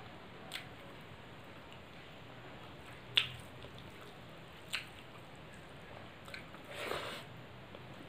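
A person eating rice and curry by hand: wet mouth clicks while chewing, three sharp ones spread through the first five seconds, the loudest about three seconds in. Near the end comes a short cluster of clicks and a longer eating sound lasting about half a second.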